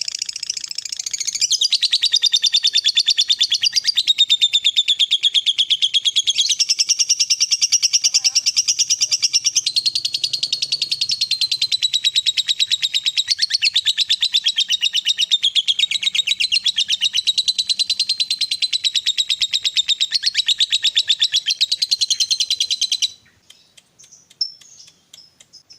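Lovebird giving the long, very fast rattling chatter that keepers call 'ngekek panjang', the song of a fighter lovebird. It runs unbroken for about twenty seconds, then stops suddenly near the end.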